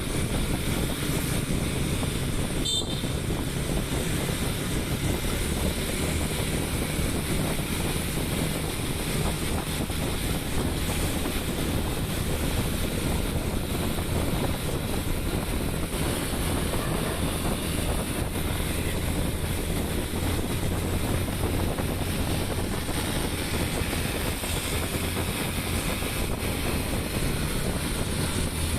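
A vehicle's engine running steadily under heavy wind noise on the microphone, as when the microphone is carried on a moving vehicle.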